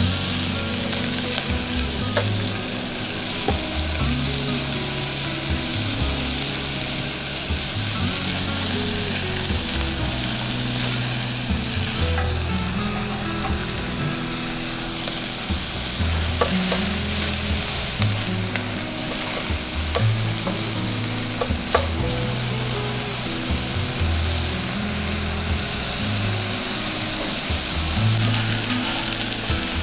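Chopped vegetables sizzling steadily as they are sautéed in an aluminium saucepan, stirred with a spatula that clicks against the pot now and then.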